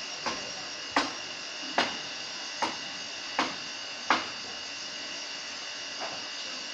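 A series of sharp taps or clicks, about one every 0.8 s for the first four seconds, then one more near the end, over a steady hiss.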